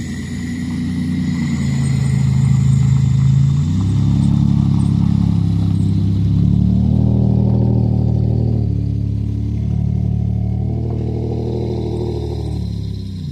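Cadillac CTS engine and exhaust running with a steady low drone, its pitch and loudness shifting a few times as the car is driven.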